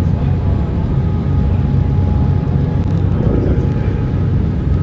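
Strong wind buffeting the microphone, a loud, continuous low rumble that flutters rapidly in strength.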